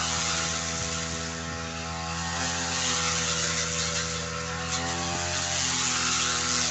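Two-stroke brush cutter engine running steadily while cutting grass, its pitch wavering slightly.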